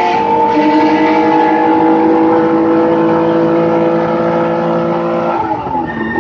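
Race car engine heard from inside the cockpit, held at steady high revs, then dropping in pitch near the end as the revs fall.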